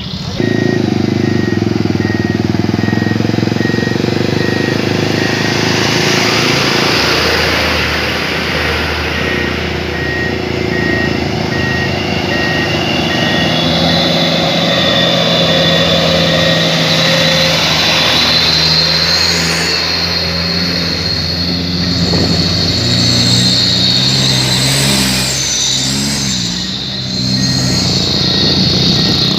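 Truck engine running loud through a Sulawesi-style 'chung takalar' open exhaust, its pitch shifting up and down as the throttle is worked. A high steady whine joins about halfway through.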